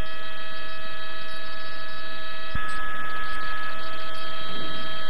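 A loud, steady tone of several held pitches over a hiss, with a single click about two and a half seconds in.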